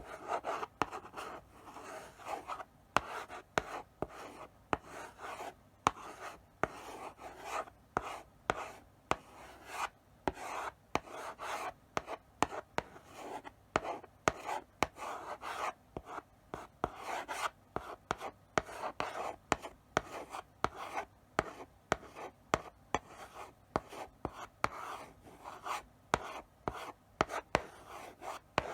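Chalk writing slowly on a blackboard: short scratchy strokes with sharp taps where the chalk meets the board, in an uneven rhythm with brief pauses between strokes.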